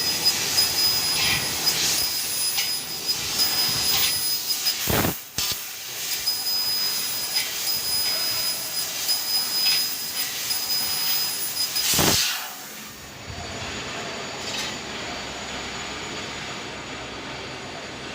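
3000 W fiber laser cutting machine cutting sheet metal: a steady hiss of the assist gas with on-and-off high-pitched tones as the head cuts, and two short loud blasts about five and twelve seconds in. From about thirteen seconds the hiss drops to a quieter, even level.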